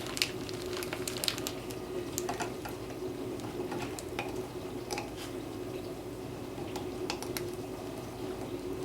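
Soft clinks and squishing of thick whipped soap being handled with utensils and containers, scattered small clicks over a steady low hum.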